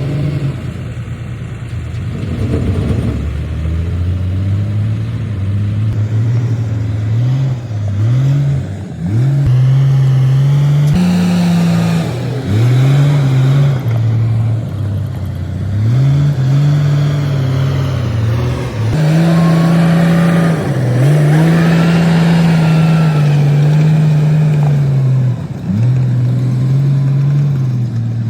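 Komatsu D58P bulldozer's diesel engine working under load. Its engine speed rises and dips over and over, every couple of seconds, and it runs loudly throughout.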